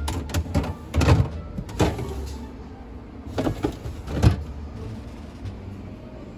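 Knocks and clatter of containers being set on refrigerator shelves and a drawer or door being slid and shut, in about six separate bursts over a low hum.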